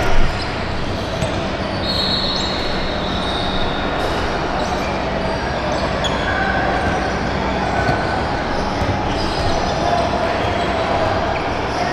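Basketball game in a gym: the ball bouncing on the court and sneakers squeaking, over a steady, echoing bed of crowd and player noise. A sharp knock comes just at the start.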